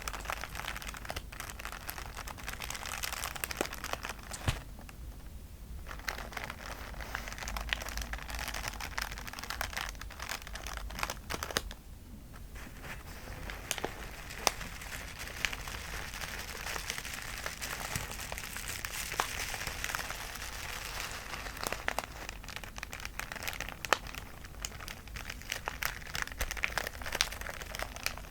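A plastic bag filled with beads being squeezed and kneaded, a steady crinkling and crackling with many small clicks from the beads. It pauses briefly about five seconds in and again about twelve seconds in.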